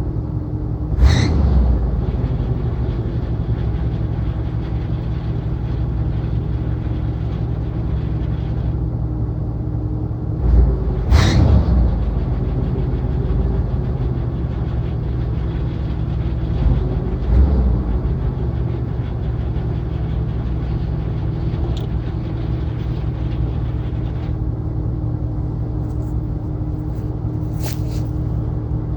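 Classic Cadillac engine idling steadily after a hard start, with a few brief louder surges along the way.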